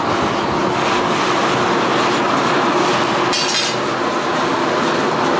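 Coal forge running with its air blower on: a steady, loud roar with a faint hum in it. A brief high rasp comes about three and a half seconds in.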